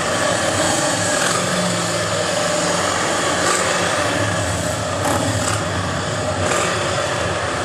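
Motor vehicle engines running steadily: a low rumble with a higher, steady engine note over it.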